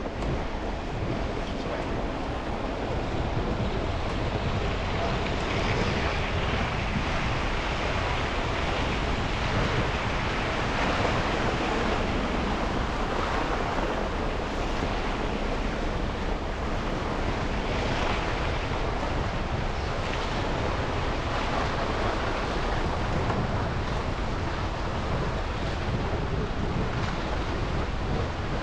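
Car driving through city streets after a snowstorm: a steady rushing hiss of tyres on wet, slushy pavement with the hum of surrounding traffic, swelling and easing every few seconds.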